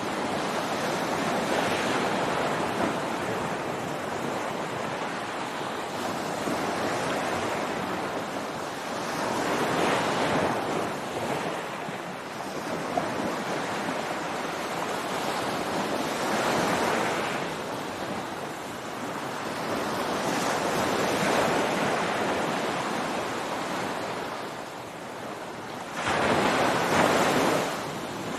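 Ocean surf washing onto a beach: a steady hiss of water that swells with each wave every few seconds, with a sudden louder wave breaking near the end.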